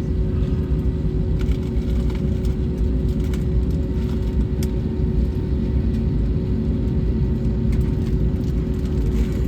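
Cabin noise inside an Airbus A321neo taxiing after landing: a steady low rumble from the engines and the rolling gear, with a constant hum and a few light rattles.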